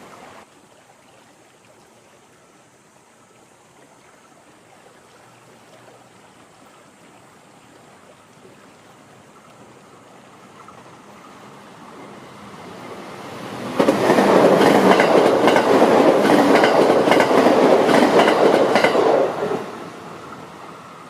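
A train approaching with a slowly rising rumble, then passing close by from about two-thirds of the way in. It is loud for about six seconds, wheels clacking rapidly over the rail joints, before the sound drops away as it recedes.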